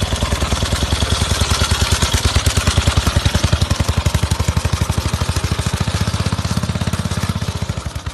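Old Soviet motorcycle engine running with an even, rapid exhaust beat. It swells slightly in the first few seconds, then eases back toward the end.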